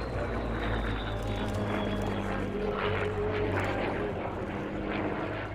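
Rolls-Royce Merlin V12 engine of a propeller warbird in flight, running with a steady drone and a faint high whine that slowly falls in pitch.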